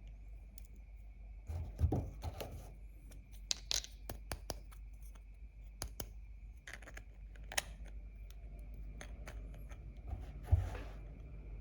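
Hands handling small plastic toy pieces: scattered light clicks and taps with short rustles, and a soft thud about two seconds in and another near the end.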